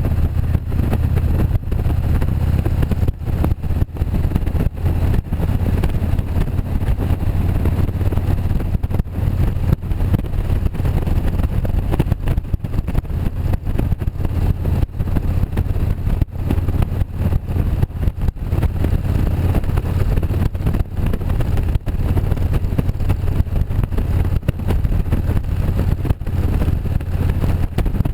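Motorcycle engine running steadily on the move, with rushing wind noise over the microphone.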